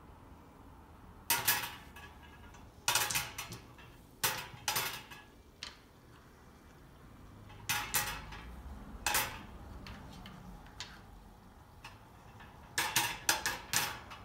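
Numbered draw balls clacking against each other in irregular clusters of sharp clicks as they are counted out and put into the draw cage.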